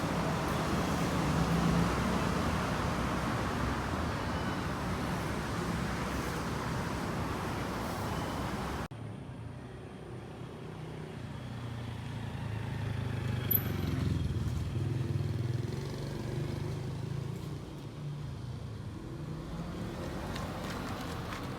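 Street traffic: a steady wash of passing cars that cuts off abruptly about nine seconds in, followed by a lower engine rumble that swells, as a vehicle passes, and fades again.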